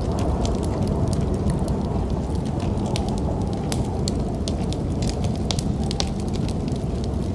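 Wood fire crackling, with scattered sharp pops over a steady low rumble of snowstorm wind.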